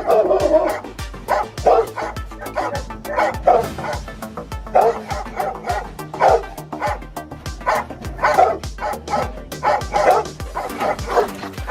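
A guard dog barking repeatedly in short, sharp bursts, several a second, alerting on a handler's "watch him" command, with background music under it.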